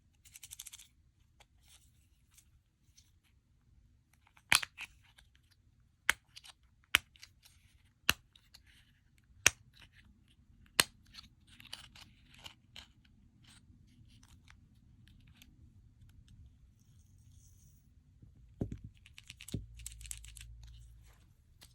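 Slime being kneaded and pressed by hand with clay worked into it: soft crackly, sticky sounds and about six sharp pops, spaced a second or so apart, in the first half, with more crackling near the end.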